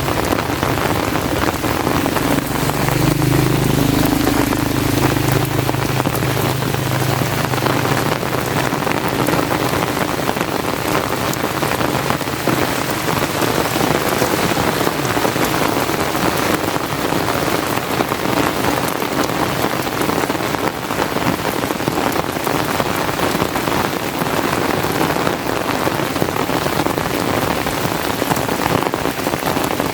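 Steady heavy rain falling, a dense, even hiss of drops. A low droning hum joins it from about three to eight seconds in.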